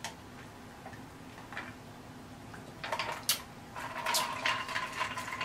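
Close-miked mouth sounds of a person eating: wet clicks and smacks of chewing and swallowing. They grow busier about three seconds in, with a thin steady tone running under them.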